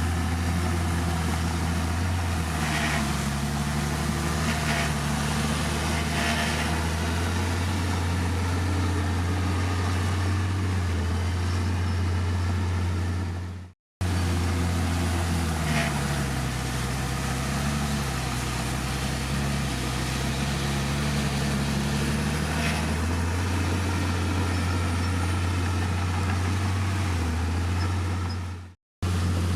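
Heavy diesel engine of a Komatsu D51PX bulldozer running steadily under load, its pitch dipping and rising again, with a few faint clanks. The sound breaks off for a moment twice, at about the middle and near the end.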